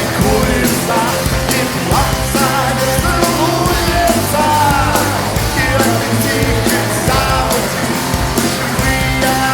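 Rock band playing live: drums keeping a steady beat under a bending, wavering melodic lead line.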